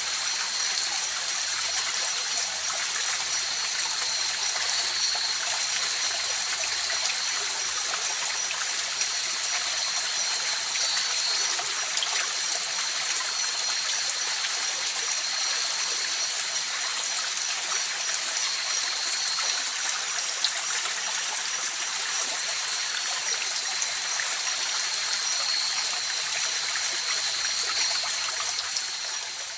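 A mountain river or stream flowing steadily with an even rushing sound. A thin, steady high-pitched tone runs over it. The whole sound fades out near the end.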